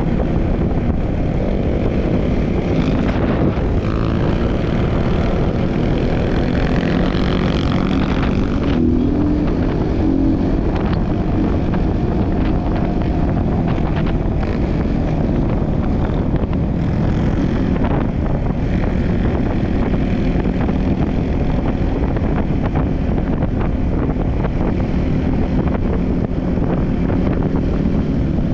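Trail motorbike engine running under way, its revs rising and falling, with wind buffeting the microphone.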